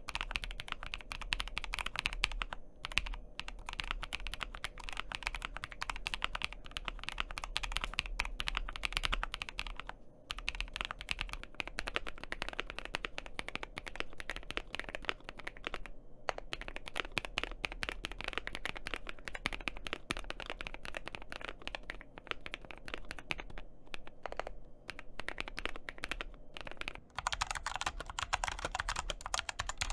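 Continuous typing on a Kiiboom Moonshadow mechanical keyboard, fast keystrokes with a few brief pauses. About 27 seconds in, a different keyboard, the Magegee 60, takes over with brighter, louder keystrokes.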